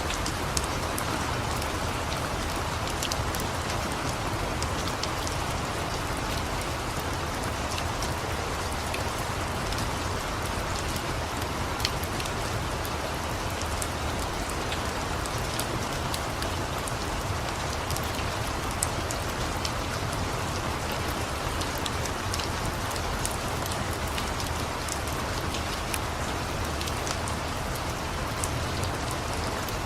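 Steady rain falling, an even hiss, mixed with a crackling wood fire whose small sharp pops come scattered throughout.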